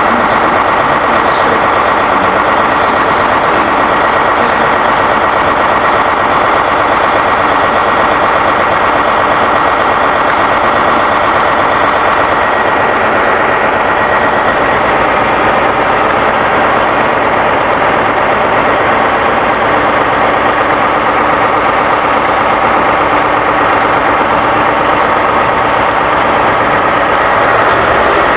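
Diesel train engine running steadily and loudly close by at the platform.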